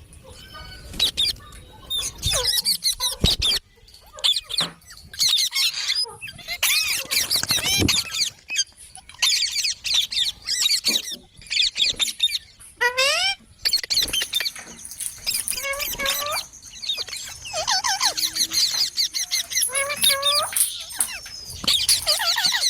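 Green parrots chirping and squawking in quick runs of short, high calls, with brief pauses between runs.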